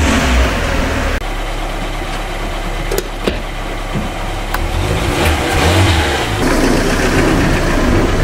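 Fiat Punto's engine running just after starting: louder for about the first second, then settling into a steady idle. Two sharp clicks come about three seconds in.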